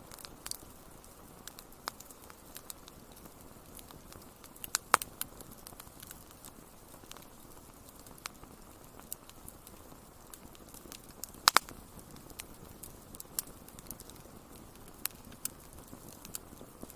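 Wood fire crackling: irregular sharp pops and snaps over a steady soft hiss. The loudest pops come about five seconds in, with a quick double pop past the middle.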